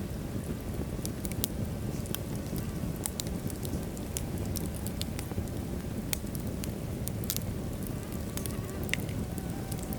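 Wood logs burning in a fireplace: a steady low rumble of flames with scattered sharp crackles and pops, a brighter pop near the end.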